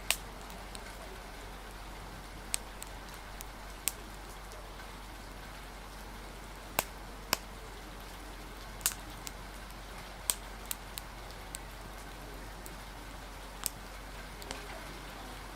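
Steady hiss of rain and wind with about a dozen sharp, irregular pops and crackles scattered through it, as from a crackling fire.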